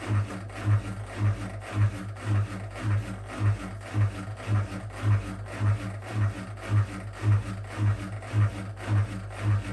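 Whirlpool WWDC 7440 washing machine drum turning slowly, driven by its carbon-brush motor. A low hum pulses evenly about twice a second under the rubbing of laundry against the drum.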